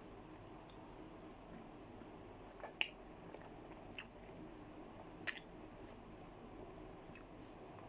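Faint close-miked eating of doner kebab: soft chewing with three sharp wet mouth clicks spaced a second or so apart, over a low steady hiss.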